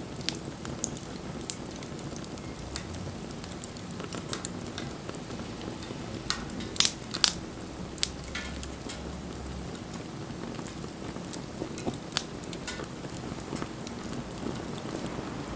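Wood fire burning with a steady hiss and scattered crackles, two louder pops about seven seconds in.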